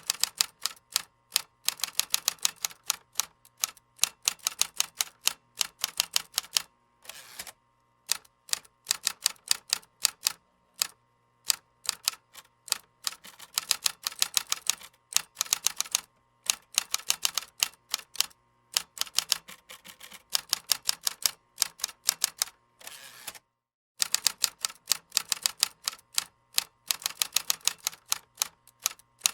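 Typing on a computer keyboard: fast runs of keystroke clicks, broken by brief pauses about seven seconds in and again about twenty-three seconds in.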